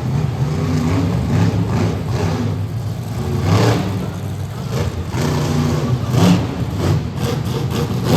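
Monster truck engines revving and running hard, their pitch rising and falling, with louder surges about three and a half and six seconds in.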